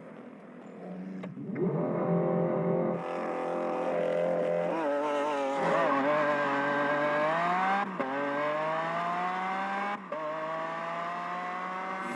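Car engine accelerating hard through the gears, its pitch climbing steadily in each gear and dropping at each upshift, twice in the second half.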